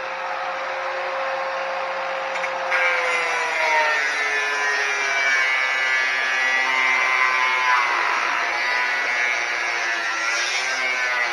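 Angle grinder with a cut-off wheel cutting metal. Its motor whine sags in pitch for several seconds as the wheel is pressed into the cut, then climbs back near the end as the load comes off.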